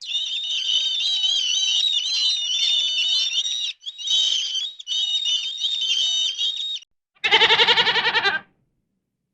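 Small birds chirping and warbling in rapid high-pitched trills for about seven seconds, with two brief breaks. Then a goat gives one loud, quavering bleat.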